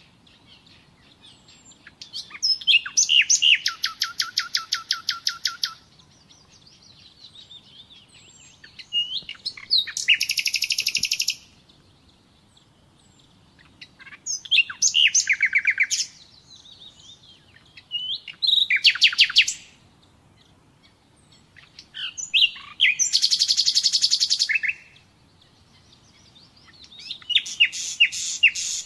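Common nightingale singing: about six separate phrases, each a couple of seconds of fast repeated high notes and trills, with short pauses between them.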